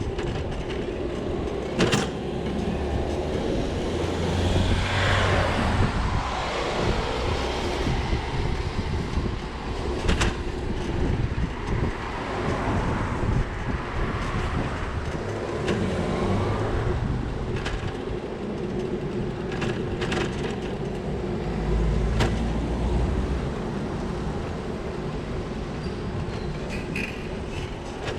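Riding a bicycle along wet city streets: steady tyre and wind noise on the camera, with a few sharp rattles and knocks from bumps in the road and low rumbles from passing traffic.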